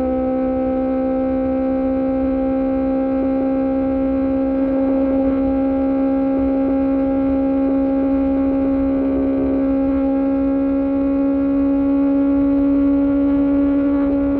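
QJMotor SRK600 inline-four with an Austin Racing exhaust, running at steady high revs, its pitch creeping slightly upward as it holds the throttle. Wind rumble sits underneath. The sound cuts off suddenly right at the end.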